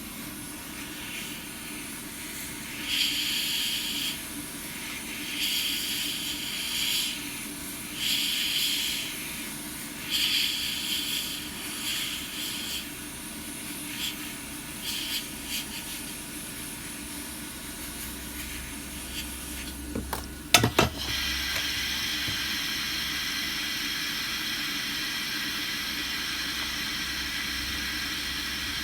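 Hiss of a hot air tool blowing air, with short louder bursts in the first half. A sharp click about twenty seconds in, after which the hiss runs steady and a little louder.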